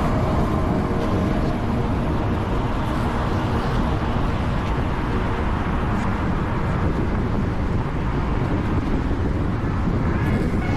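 Steady road and traffic noise of a car driving on city streets, a continuous low rumble that holds even throughout.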